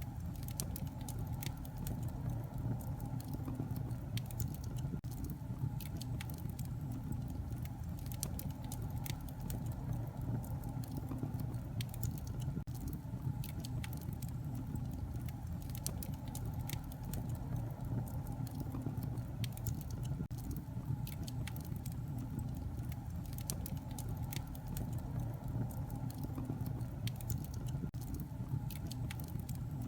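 Wood fire crackling in a fireplace: a steady low rumble of the flames with many small, irregular pops and snaps.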